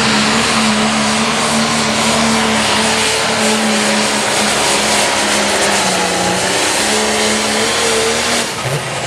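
Turbocharged diesel pulling tractor running at full throttle under load as it pulls the sled down the track. Its engine note holds steady with slight wavers, then drops away sharply near the end as the throttle comes off.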